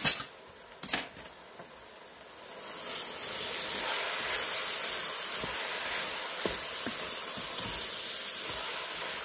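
Ground beef and vegetables sizzling in a hot pot as they are stirred with a wooden spoon, the sizzle swelling about two and a half seconds in and then holding steady, with a few soft knocks of the spoon. Two sharp knocks come in the first second.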